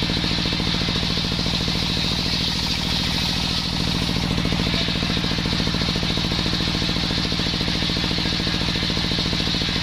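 Small engine of a homemade circular-saw rig running steadily at speed, with an even, rapid firing beat.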